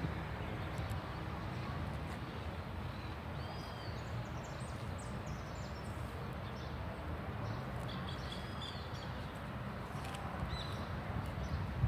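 Small birds calling: short arched call notes repeated three times, with a quick cluster of high, thin chirps about four to six seconds in, over a steady low rumble.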